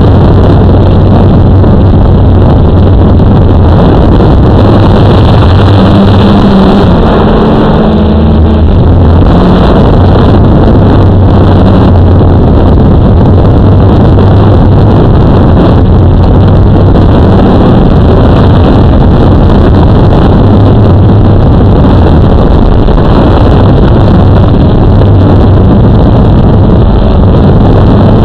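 Blade 350 QX quadcopter's electric motors and propellers buzzing loud and close, a steady hum whose pitch shifts for a few seconds about a quarter of the way in as the motors adjust, over a rushing noise of wind.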